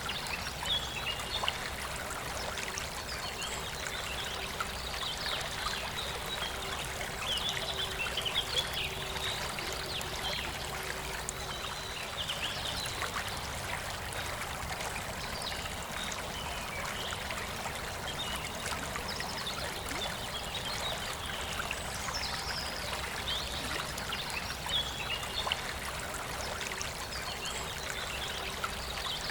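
Forest river flowing steadily, with birds singing in short phrases every few seconds over the water.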